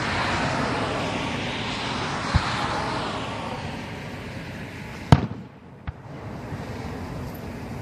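Professional aerial fireworks: a long hissing wash for the first few seconds with a low thud partway through, then a sharp bang about five seconds in and a smaller one soon after.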